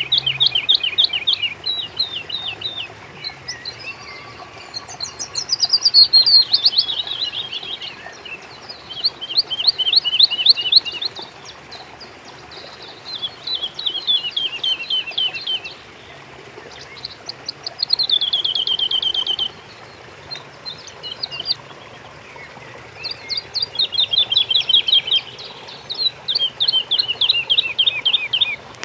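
Songbird singing, in repeated short phrases of rapid notes that fall in pitch, one phrase every three to four seconds, over a steady background hiss.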